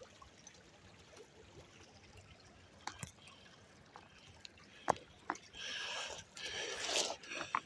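Faint flowing river in the background, with a few sharp knocks, then near the end a couple of seconds of scraping and rustling as someone clambers along a fallen tree trunk.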